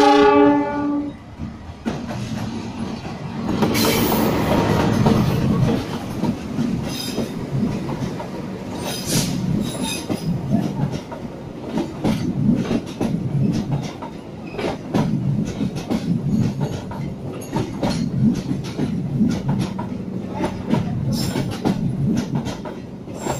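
A short blast on a diesel locomotive's horn, ending about a second in. Then the CC 206 diesel-electric locomotive and its stainless-steel passenger coaches pass close by, with the wheels clattering steadily over the rail joints. The locomotive is loudest going past a few seconds in.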